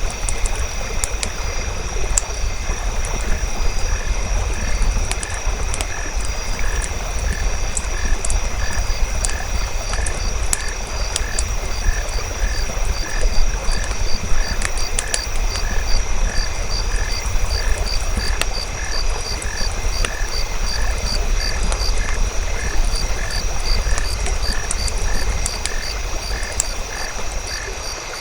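Frogs calling in steady, evenly repeated pulses, one call about once a second and a higher one faster, over a crackling campfire with sharp pops and a low, steady rumble.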